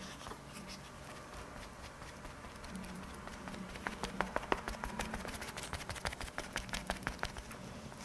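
Faint, quick soft taps of a cushion foundation puff being patted onto the face, several a second, starting about four seconds in.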